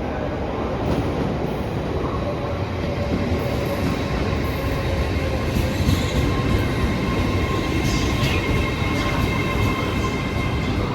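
A train moving through the station with a steady rumble; steady high-pitched wheel squeal sets in about two seconds in and carries on.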